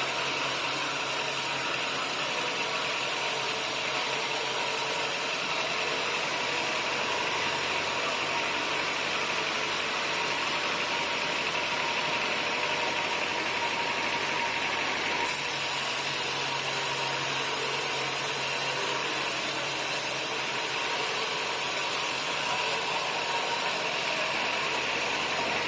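An engine running steadily at constant speed, an even mechanical hum with hiss and no changes in load.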